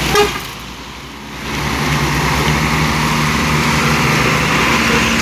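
A vehicle engine running steadily with road noise. The sound drops off briefly just after the start and comes back up about a second and a half in.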